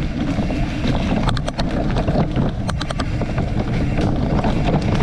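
Wind buffeting the microphone in a steady low rumble, with a few faint clicks about a second and a half in and again near three seconds.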